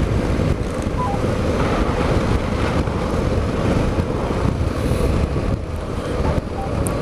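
Suzuki V-Strom motorcycle engine running, mixed with a steady rumble of wind on the camera microphone.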